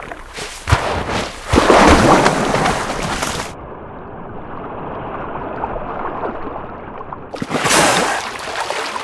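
Water sloshing and gurgling around a male hooded seal in the sea, in loud surges that turn duller for a few seconds midway.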